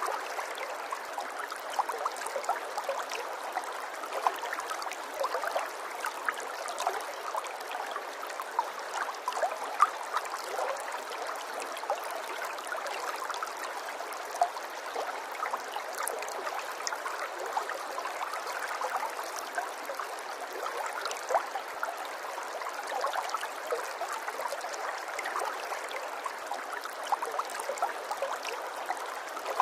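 Water trickling and babbling steadily, a continuous splashing with many small drops and gurgles.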